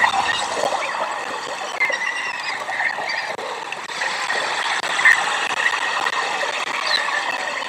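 Steady outdoor background of the nest camera's microphone, with small birds chirping repeatedly over it.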